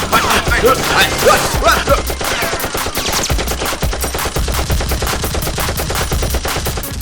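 Rapid, evenly spaced automatic gunfire sound effects, an edited-in machine-gun rattle standing in for the blasters, over background music with a low beat.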